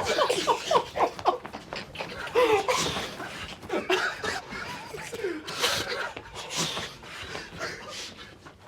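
Young men laughing and trying to hold it in, in quick pulsing bursts that are loudest in the first second, then scattered quieter laughs and breaths. The laughter is what breaks the required silence and costs the round.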